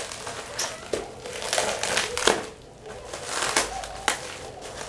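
Plastic packaging crinkling and rustling as a boxed humidifier is unwrapped, with irregular sharp crackles.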